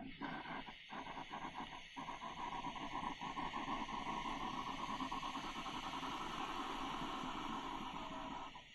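Krups Type 962 espresso machine running, a steady drone with a fast pulsing texture that briefly dips twice early on and cuts off near the end.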